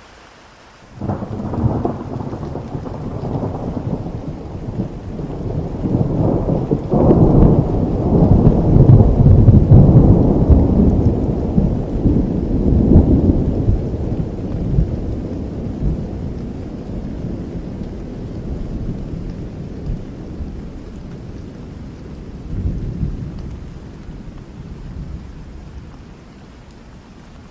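A thunder roll over steady rain: it breaks in suddenly about a second in, swells into a long low rumble that is loudest in the middle, and dies away near the end.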